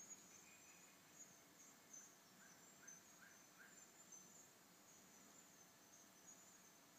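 Faint forest ambience: insects chirring steadily at a high pitch, with a quick run of four short chirps about two and a half seconds in.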